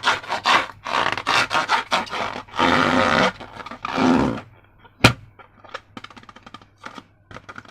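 Slime being worked by hand, a run of quick sticky squelching strokes and then two longer squishes. About five seconds in comes one sharp snap, followed by faint sticky crackles.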